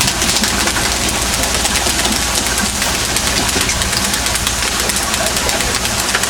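A fishing boat's engine running steadily, under a constant loud hiss.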